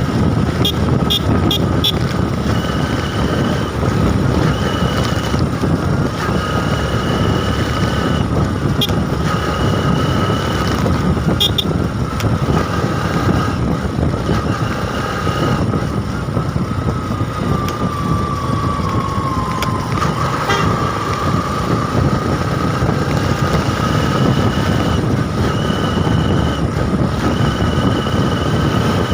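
Riding a motorbike in traffic: steady engine and wind noise, with short toots of vehicle horns coming and going throughout.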